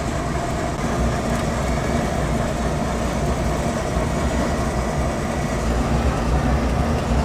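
Steady mechanical rumble with a constant low hum, like machinery running without pause.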